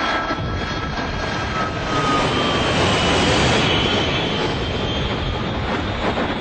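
Airplane engine running in a steady roar with a thin high whine over it, swelling a little about two seconds in.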